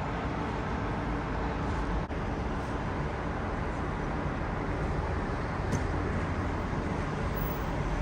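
Steady road traffic noise: a constant low rumble of vehicle engines and tyres.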